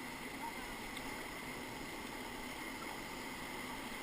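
Steady rush of whitewater rapids.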